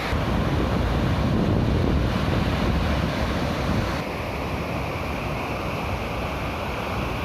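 Ocean surf washing and breaking on the beach, a steady rushing noise with wind buffeting the microphone; it drops abruptly about four seconds in.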